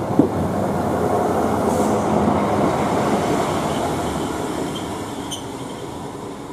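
An East Midlands Railway diesel multiple unit passing on the adjacent line, its wheels running over the rails with a sharp knock just after the start. It is loudest two to three seconds in, then fades as it moves away.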